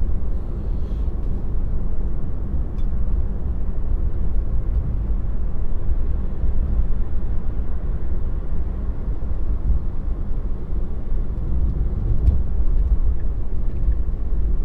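Steady low road and tyre rumble inside a Tesla's cabin while it drives along in traffic.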